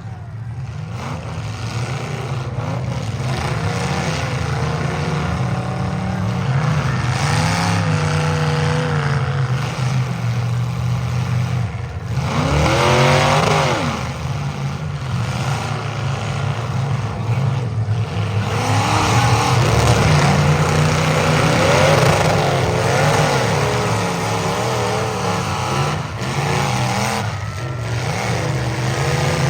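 Several demolition derby cars' engines revving up and down together under hard throttle, with a few sharp bangs of car bodies colliding.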